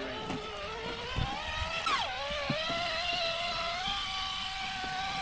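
Radio-controlled car's motor and drivetrain whining under throttle. The pitch drops sharply about two seconds in, then slowly climbs again, with a few light clicks and knocks from the tyres working over the ground.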